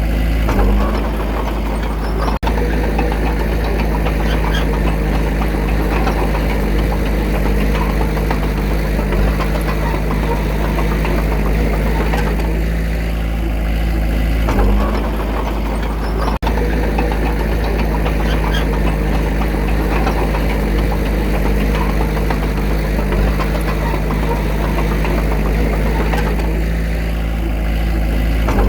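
Diesel engine of earthmoving machinery running steadily and loudly with a constant low hum, the engine note holding without revving up or down.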